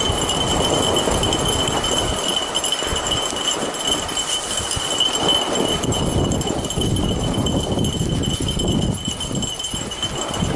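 Harnessed dogs running and pulling a snow bike along a snowy trail: the patter of their feet and jingling collar and harness hardware over the steady noise of the bike rolling. A thin steady high tone runs underneath.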